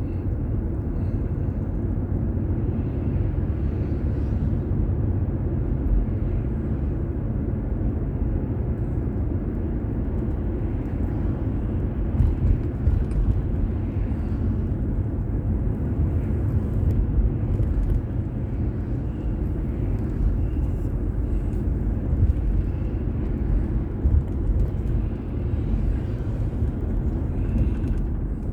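Car driving, recorded by a dashboard drive recorder: steady low road and engine noise, with a few light bumps along the way.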